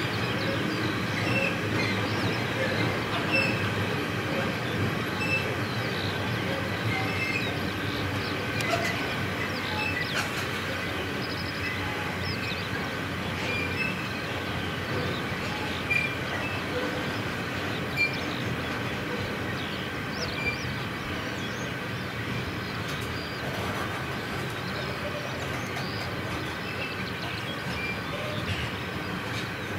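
Freight train of empty double-deck car-carrier wagons rolling past steadily: a continuous rumble and rattle of wheels on rails, with a few faint high squeaks and small knocks.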